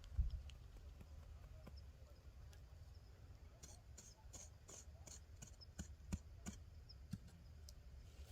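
Faint taps and scrapes from planting seeds by hand in garden soil, with a run of quick taps about three a second in the middle stretch, over a low rumble on the microphone. A single thump comes just after the start.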